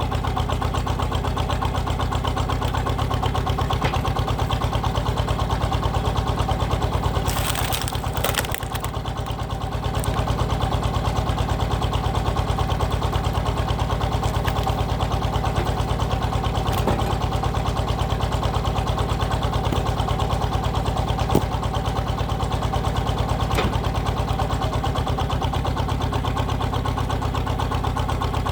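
Walking tractor's single-cylinder diesel engine running steadily with a fast, even chugging, powering a hydraulic log splitter. About seven seconds in the engine sound dips briefly under a burst of hissing noise, and a few sharp clicks sound later on.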